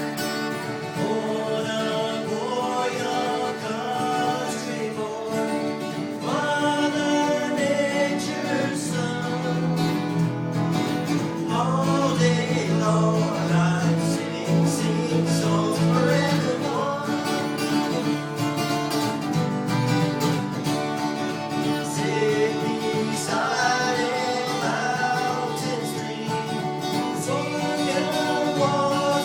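A song played on acoustic guitar, with a solo voice singing over it that comes in a few seconds in.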